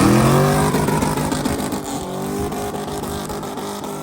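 Truck engine revving hard, its pitch peaking about half a second in, then falling and settling as the level gradually drops, over a crackly hiss.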